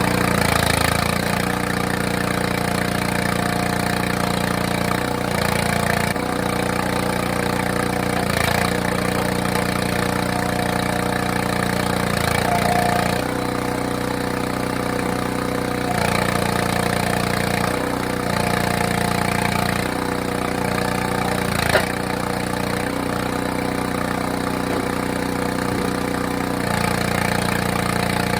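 Small gas engine of a hydraulic log splitter running steadily, its note shifting every few seconds as the splitter works through wet maple rounds. One sharp crack sounds about three-quarters of the way through.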